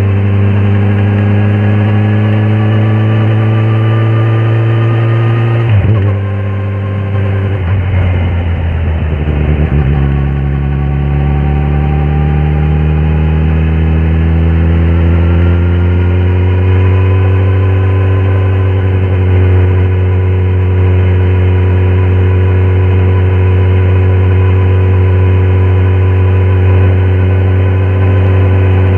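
Kawasaki ZX-10R SE inline-four engine under way, revs rising slowly as it pulls. About six seconds in the throttle is shut and the revs drop, running unevenly for a few seconds, then it pulls again and settles into a steady cruise.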